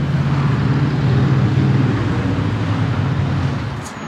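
Car engine idling steadily, an even low hum, easing off slightly near the end.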